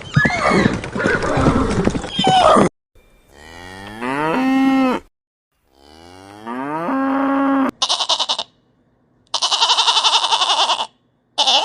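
A string of animal calls: a harsh noisy call at first, then two long cattle moos, each rising in pitch and then holding level, then short buzzy, rapidly pulsing calls near the end.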